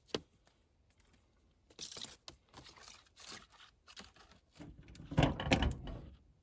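Scattered rustling and light clicks of things being handled, with a louder clatter about five seconds in. No motor is heard running.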